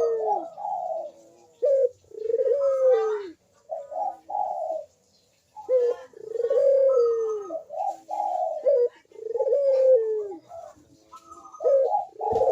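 Puter dove (ringneck dove) cooing its 'kuk-deruk' call over and over: each phrase has a couple of short notes and then a long coo that falls in pitch, about five phrases in a row.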